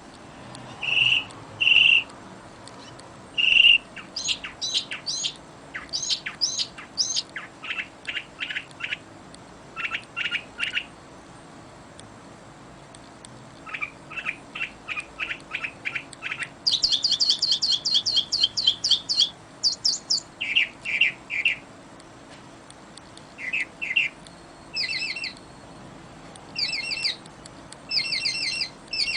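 Songbirds singing: short trilled phrases of quick, repeated sweeping notes, one phrase after another with a brief lull in the middle.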